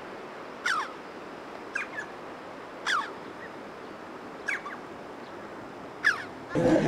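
A bird calling repeatedly: about six short, sharp chirps, each falling quickly in pitch, roughly a second apart, over a steady background hiss.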